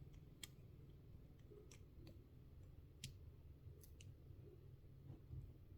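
Faint, scattered clicks of small miniature-kit pieces being handled, about half a dozen over near silence.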